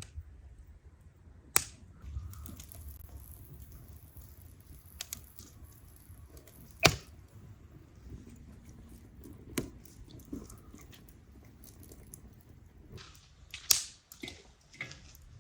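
A few separate sharp knocks or clicks over a low steady rumble, the loudest about seven seconds in and another near the end.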